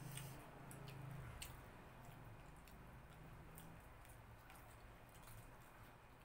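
Faint chewing and small mouth and food clicks from a person eating fried chicken, over a low steady hum.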